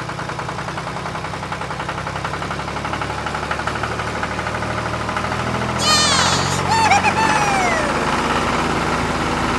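Tractor engine running steadily with a fast knocking pulse, slowly growing a little louder. About six seconds in, a high voice calls out over it in sliding rises and falls.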